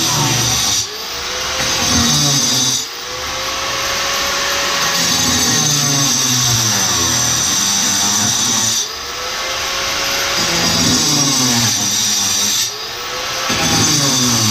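Power saw cutting through a ceramic tile wall. It runs continuously, its motor dipping in pitch and level four times and climbing back as the blade bites into the tile.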